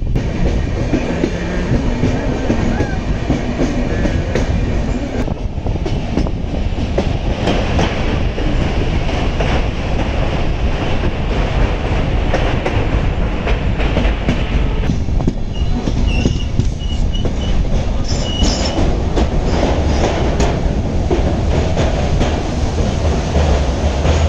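Passenger train running along a curving bridge, heard from an open coach door: a steady rumble and clatter of wheels on the rails. A few short, high wheel squeals come in about two-thirds of the way through.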